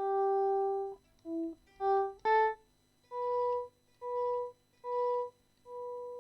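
Electric guitar playing single notes: a short phrase of a few different notes, then one higher note played four times, the last held and dying away.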